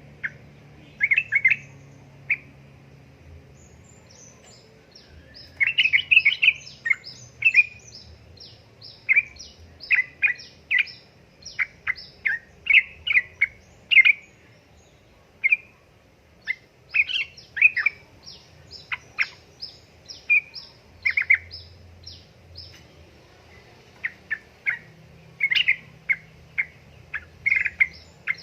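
Yellow-vented bulbul (trucukan) calling: quick runs of short, sharp chirping notes in clusters, broken by brief pauses.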